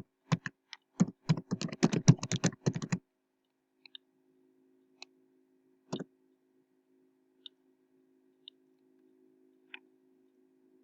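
Typing on a computer keyboard: a quick run of keystrokes for about three seconds, then a few single, spaced-out key presses over a faint steady hum.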